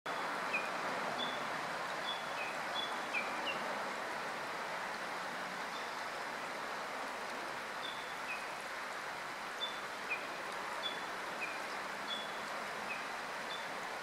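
A bird repeats short, high notes that alternate between two pitches, about two notes a second. It sings one bout in the first few seconds and another from about eight seconds in, over a steady outdoor background hiss.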